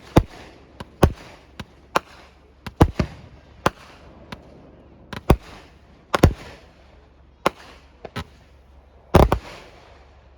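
Aerial fireworks display: a string of sharp bangs from bursting shells at irregular spacing, one or two a second, several trailing off in a fading hiss. The loudest bangs come about six and nine seconds in.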